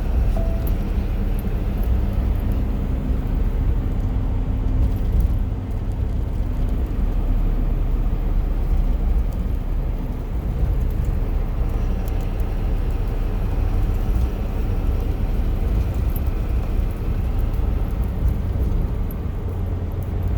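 Box truck driving along a road: steady low engine and road rumble heard from inside the cab.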